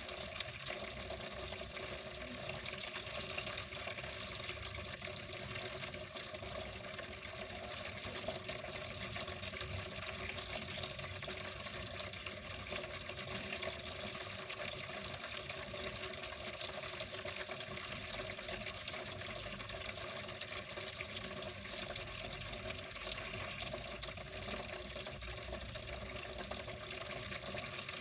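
Water flowing steadily and continuously, with an even splashing trickle that does not change.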